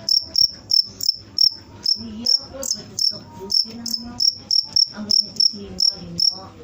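A cricket chirping in a steady, even rhythm: short high-pitched chirps, about three a second.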